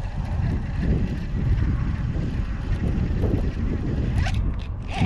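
Wind buffeting the camera microphone: an uneven low rumble.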